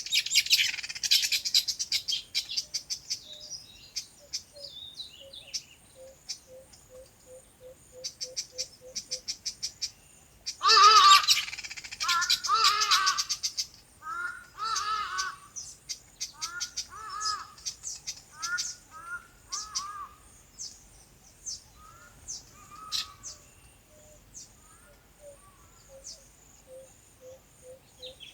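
Several birds chirping and twittering. About eleven seconds in comes a loud burst of calling, followed by a run of lower repeated calls that grow sparser, while a faint, even ticking call keeps time in the background.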